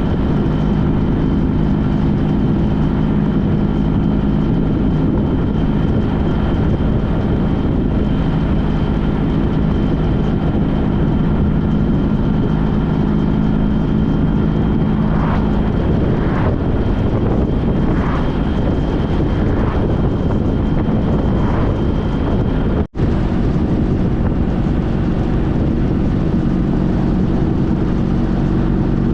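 Honda CTX1300's V4 engine running steadily at road speed under wind and road noise, heard from on the motorcycle. There is a brief dropout about 23 seconds in.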